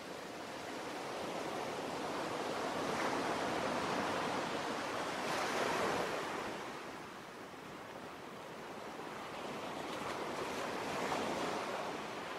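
Sea waves washing in, a steady rush that swells and ebbs twice.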